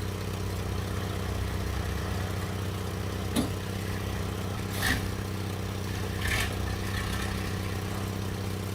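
A loaded log truck's engine running steadily. There is a sharp click about three and a half seconds in, and two short hissing bursts after it.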